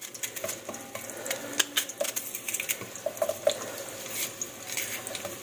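Kitchen knife slicing through an onion onto a cutting board: irregular, crisp clicks and cuts.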